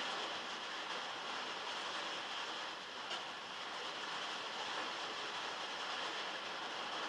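Heavy rain falling steadily on metal, heard from inside a shed as an even hiss, with one brief louder tick about three seconds in.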